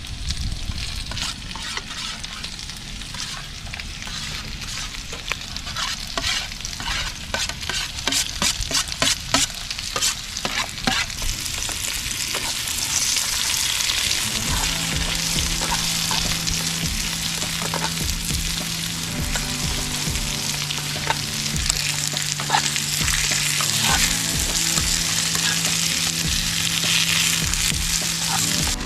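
Food frying in a pan with a steady sizzle, with a run of sharp clicks and taps from a utensil in the first half. Steady background music comes in about halfway through.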